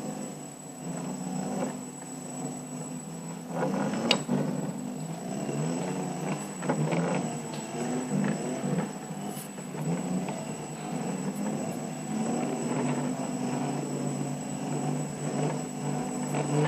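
Engine running with its pitch wavering up and down over and over, with a steady faint high-pitched whine throughout; the uploader calls it loud engine noise. A sharp click sounds about four seconds in.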